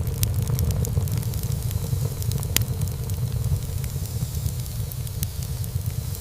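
Wood fire burning in a fireplace: a steady low rumble of flames with frequent sharp crackles and pops from the burning wood, one louder pop about two and a half seconds in.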